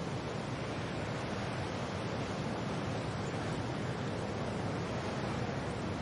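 Wind and rain making a steady, even rushing hiss, with no separate gusts or drops standing out.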